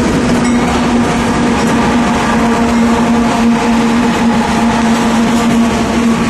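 A train passing close by, loud and steady, with one steady low tone running over the rumble of the wheels.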